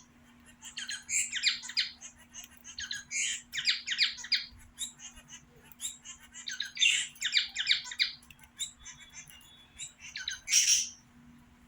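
Young budgerigar, about ten weeks old, chattering in quick runs of high chirps and squawks, with a loud screech near the end. A faint steady low hum runs underneath.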